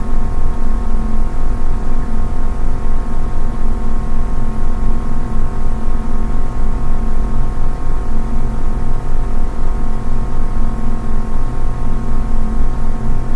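Steady ambient background music: a held droning chord of several sustained tones over a low rumble, pulsing quickly and evenly in loudness.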